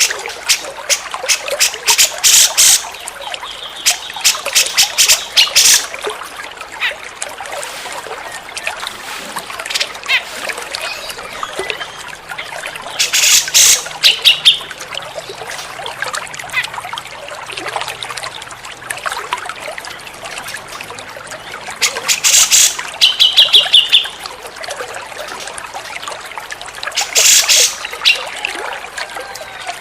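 Cucak jenggot (grey-cheeked bulbul) calling in loud bursts of rapid chattering notes every several seconds, some ending in a short fast trill, over a steady trickle of running water.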